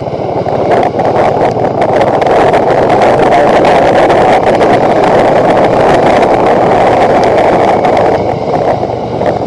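Bajaj Dominar 400 motorcycle's single-cylinder engine running steadily at cruising speed, under a loud, steady rush of wind and road noise.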